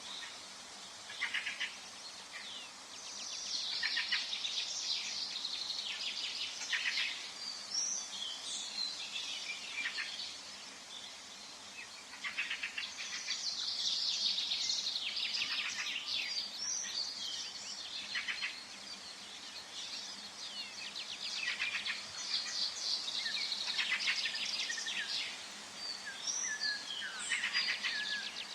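Songbirds singing in a forest: several phrases of rapid, high-pitched notes, each a few seconds long, come again every several seconds, with short calls between them, over a steady soft hiss of background noise.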